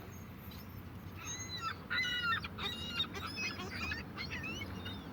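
Seagulls calling: a run of short, squawking calls from several birds, overlapping, starting about a second in and loudest around two seconds in, over a steady low rumble.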